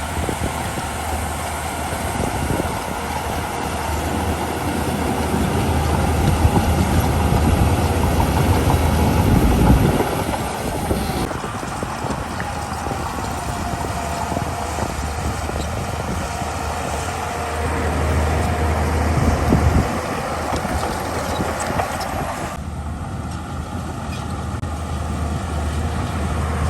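Heavy diesel earthmoving machinery running and working: a steady low engine drone with a wavering higher whine over it, swelling louder partway through and changing abruptly twice.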